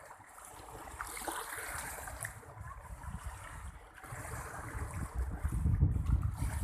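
Sea surf washing with wind buffeting the microphone. The gusts grow louder in the second half.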